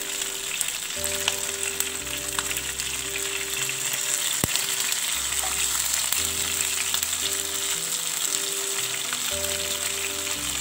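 Coconut oil sizzling steadily around potato-and-prawn patties as they shallow-fry in a pan, with light scrapes and clicks of a wooden spatula and a steel spoon as the patties are turned over. Soft background music runs underneath.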